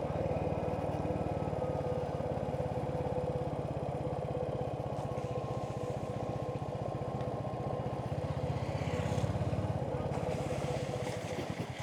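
Royal Enfield Hunter 350's single-cylinder engine running steadily, its exhaust beat even throughout.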